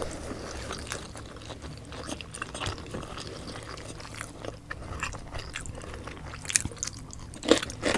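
Close-miked mouth sounds of people chewing pork adobo and raw cucumber, with small wet clicks and smacks throughout. There are a few louder, sharper bites near the end.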